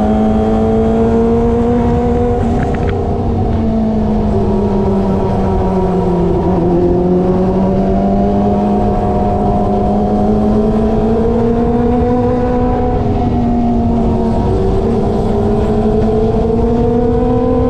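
Kawasaki ZX25R's inline-four engine through an SC Project aftermarket exhaust, cruising under steady throttle; its pitch dips twice, about six seconds in and again near the end, as the rider eases off and picks up again. Really loud.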